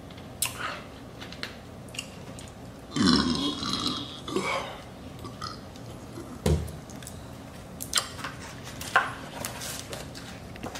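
A person burping loudly once, about three seconds in, for about a second, with a smaller trailing sound just after; short clicks and a low thump come and go around it.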